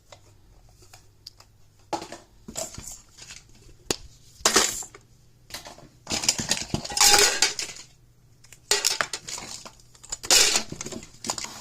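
Small hard toys clattering and rattling as they are handled and dropped into a storage bin, in several spells with single clicks between them.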